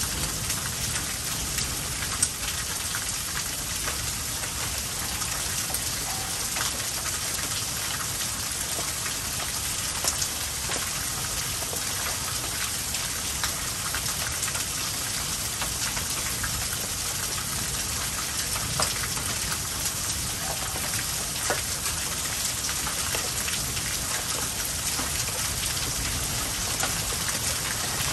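Steady rain falling, with a few sharp clicks of drops striking close by.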